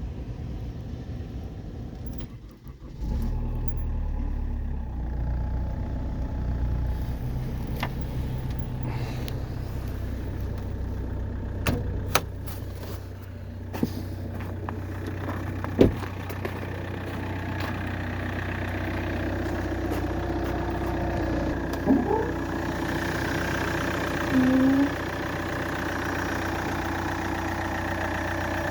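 Vauxhall Antara 2.0 CDTI four-cylinder diesel engine starting and catching about three seconds in, then idling steadily. A few sharp clicks and a brief tone about 24 seconds in.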